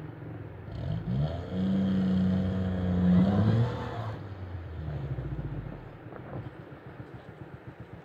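Off-road 4x4's engine revving under load on a loose sandy track, driven in reverse. The revs rise about a second in, hold steady for a couple of seconds, climb higher, then drop back to lower, uneven running from about four seconds in.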